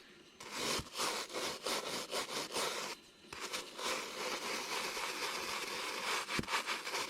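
A brush scrubbed back and forth over freshly V-carved PVC in quick, irregular scratchy strokes, with a short pause about three seconds in, clearing the messy chips left in the carved grooves.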